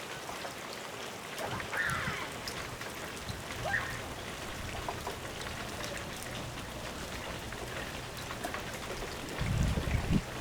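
Steady rain falling, with many small drops pattering, a couple of brief high chirps about two and four seconds in, and a low rumble near the end.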